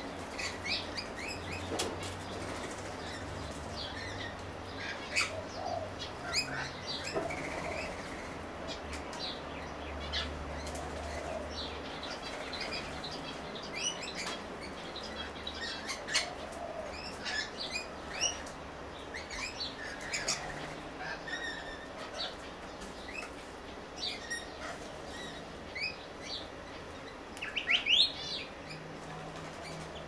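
Small garden birds chirping: many short, scattered calls throughout, with a louder quick burst near the end, over a faint low rumble.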